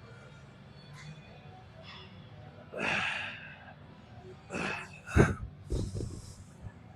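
A man breathing hard, with sharp forceful exhales of effort during a set of heavy dumbbell curls, and one thud a little after five seconds in.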